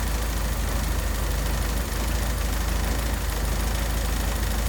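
Triumph Herald four-cylinder engine idling steadily after warming up, with the bonnet chattering from the engine's vibration.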